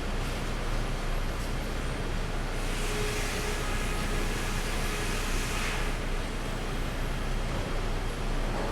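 Sawmill machinery running steadily with a low drone, and a louder hiss about three seconds in that lasts around three seconds before dying back.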